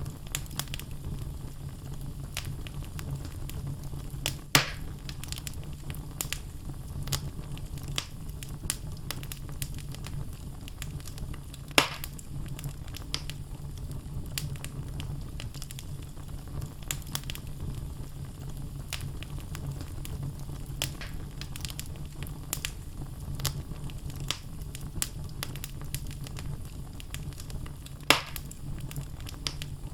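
Wood fire burning in a fireplace: logs crackling with frequent small snaps over a steady low rumble. Three louder pops stand out, about four seconds in, about twelve seconds in, and near the end.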